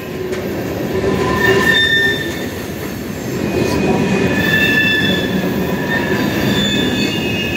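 Freight train cars rolling past with a steady rumble of wheels on rail. Over it, the wheels squeal in high held tones that come and go and shift in pitch.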